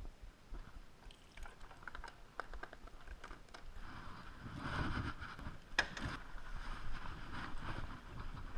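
Low rumble of a car engine, swelling about halfway through, with scattered clicks and knocks over it.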